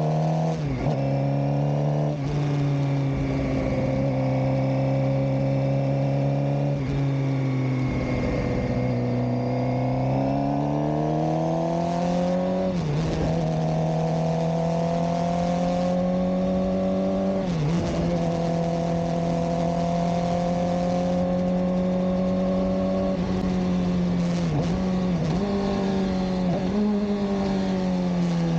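Suzuki GSX-R600 K7 inline-four engine and exhaust running under way at a fairly steady pitch, rising gradually from about ten seconds in, with brief sharp dips in revs several times, and falling away near the end.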